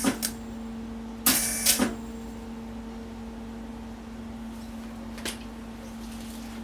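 MIG welder laying short tack welds on thin sheet steel: a crackling burst of about half a second a little after one second in and a brief faint one a little after five seconds, over a steady low hum.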